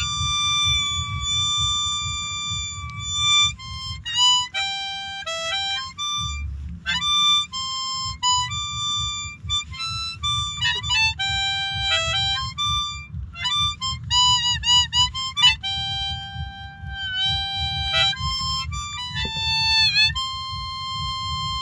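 Harmonica playing an instrumental break between sung verses: a single melody line of short notes, with bent, wavering notes about two-thirds through and again near the end, closing on a long held note. A low steady rumble runs underneath.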